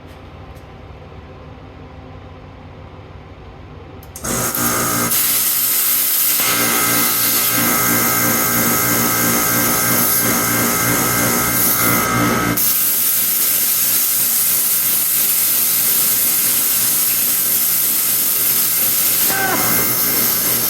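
Lincoln Tomahawk 375 plasma cutter, torch on an ArcDroid CNC carriage: a low hum, then about four seconds in the cutting arc starts with a sudden loud, steady hiss. The hiss runs on, changing in tone about two-thirds of the way through.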